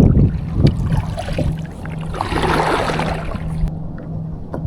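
Kayak paddle strokes through the water, with a splashy wash about two seconds in, over a low wind rumble on the microphone and a few light knocks.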